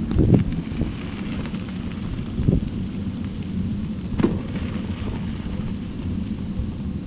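Low wind-and-rough-ground rumble from a mountain bike being ridden over a dirt trail, with a few sharp knocks from the bike jolting over bumps.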